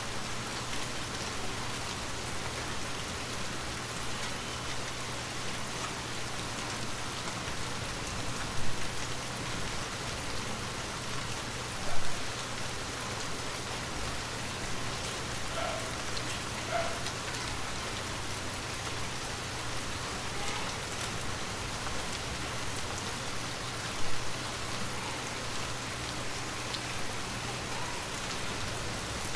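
Steady rain falling, an even hiss of drops, with three brief louder hits: one about nine seconds in, one about twelve seconds in, and one near twenty-four seconds.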